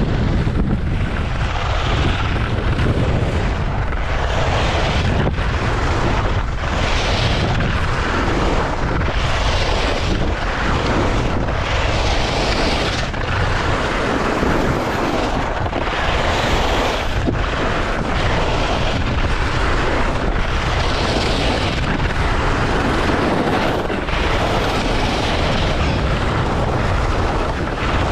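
Wind rumbling hard on the GoPro's microphone during a fast ski descent. Over it, the hiss of skis carving on snow swells about every one and a half to two seconds, once per turn.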